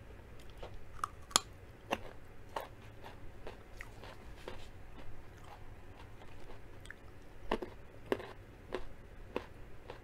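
Close-miked chewing of raw carrot sticks: irregular crisp crunches and wet chewing, the sharpest crunch about a second and a half in.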